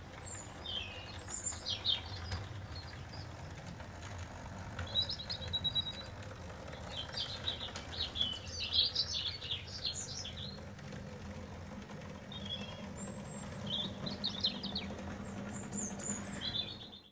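Small birds chirping and twittering in short repeated phrases, over a steady low rumble with a faint hum joining in about halfway.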